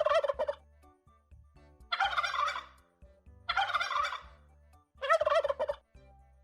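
Turkey gobbling: four rattling gobbles, each about half a second to a second long, with short pauses between.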